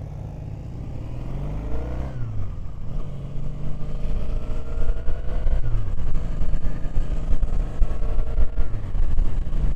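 Triumph Bonneville's parallel-twin engine accelerating up through the gears. Its pitch climbs and drops at each of three upshifts, about two seconds in, midway and near the end, getting louder as speed builds.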